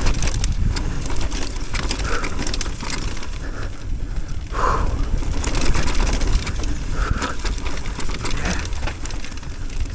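Mountain bike riding down a rocky dirt trail: tyres rolling over dirt and rock, with the frame and components rattling in quick irregular clicks and a steady low rumble of wind on the microphone.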